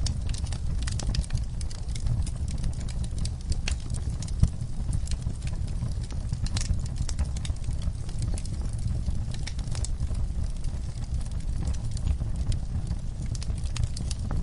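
Wood fire crackling: irregular pops and snaps over a low, steady rumble, with one sharper pop about four and a half seconds in.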